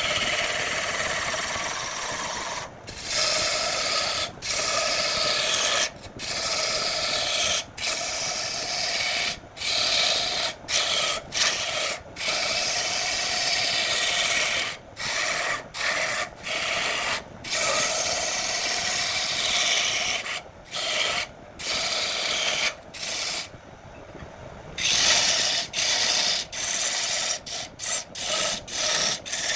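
A wood lathe spinning a workpiece while a turning tool or abrasive is held against the wood, giving a steady scraping rasp over the lathe's hum. It breaks off briefly and abruptly many times, about every second or two.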